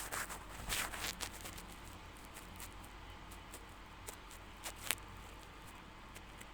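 Potato slices being handled and mixed with tomato puree in a bowl: a burst of wet rustling and sharp clicks in the first second and a half, then a few scattered clicks.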